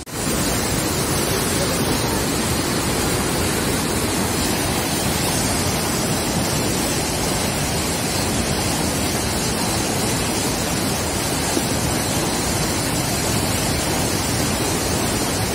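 Waterfall: a loud, steady, even rush of falling water that cuts in suddenly at the start.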